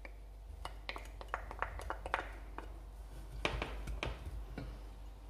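Irregular light clicks and taps of a utensil against a pot while minced meat is being put in and worked in the oil.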